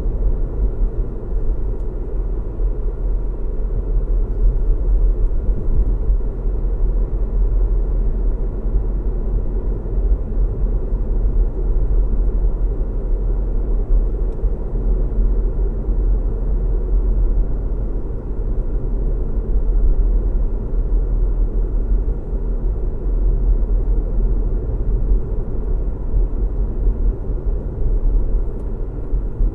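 Car driving steadily along a road: a continuous low rumble of engine hum and road noise, with no changes.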